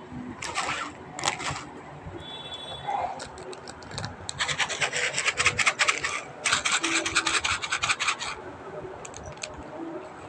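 Rapid scraping and rubbing strokes: a couple of short scrapes near the start, then two fast runs of about two seconds each past the middle.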